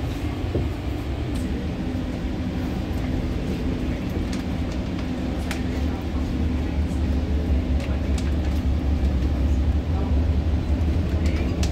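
Inside a moving passenger train: a steady low running rumble with a faint hum and a few light clicks, growing a little louder about halfway through.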